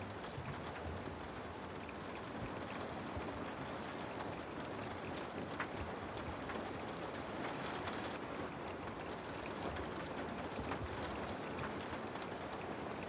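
Steady rain: an even hiss of falling rain with scattered individual drop ticks.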